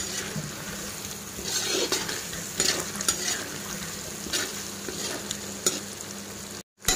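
Garlic chicken pieces sizzling in oil in a wok-like pan while a metal spatula stirs them, with a scraping stroke against the pan every second or so, as the dish finishes cooking. The sound drops out for a moment near the end.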